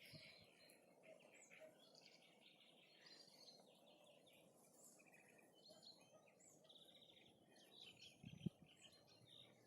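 Faint chorus of songbirds, many short chirps and trills overlapping, with a soft low thump near the end.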